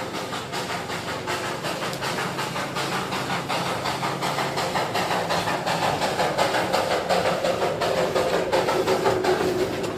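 Darjeeling Himalayan Railway narrow-gauge toy train running, with a quick, regular clatter of clicks over a steady noise. It grows louder in the second half.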